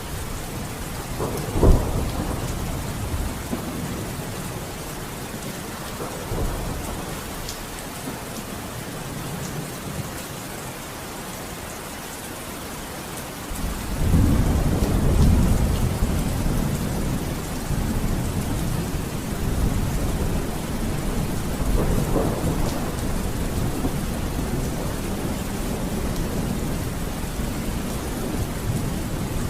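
Steady rain with thunder: a sharp crack about two seconds in, then a long, low rolling rumble that swells up about halfway through and carries on under the rain.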